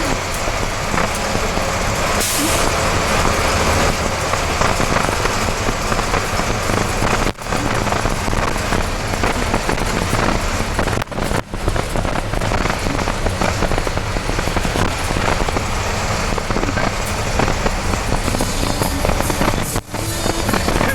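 Diesel engine of a converted school bus (a Guatemalan chicken bus) running steadily while the bus is driven in first gear, with a short hiss about two seconds in.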